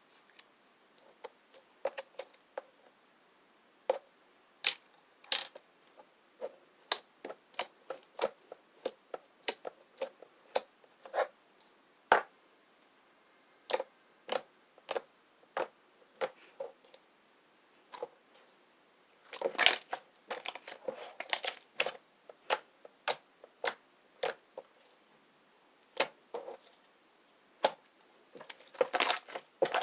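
Homemade slime being pressed and squeezed, giving sharp clicking pops one after another, with denser crackling runs about twenty seconds in and again near the end.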